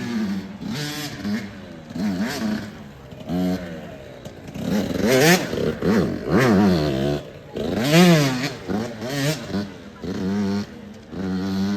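Dirt bike engine revving up and dropping back repeatedly, its pitch rising and falling several times as the throttle is worked.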